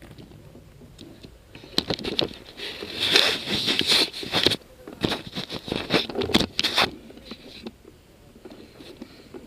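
Irregular rustling and crunching, like footsteps and gear brushing through dry undergrowth, in bursts that are loudest a few seconds in and die down near the end.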